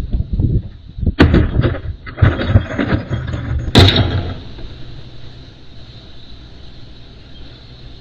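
A run of loud bangs and clattering knocks for about three seconds, the sharpest near the end of the run, over the steady hum of an engine running.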